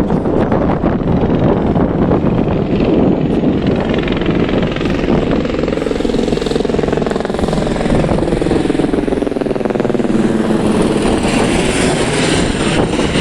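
Tour helicopter coming back in, its rotor and engine running loud and steady, the pitch sliding down and then up again as it moves past.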